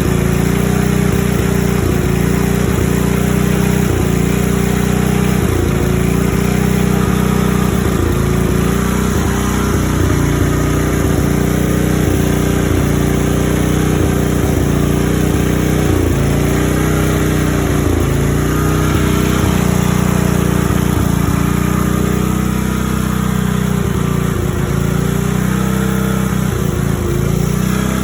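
A 5 HP Briggs & Stratton single-cylinder engine running a Coleman Powermate generator at steady speed, exhausting through a modified muffler meant to quiet it. Its speed dips briefly now and then.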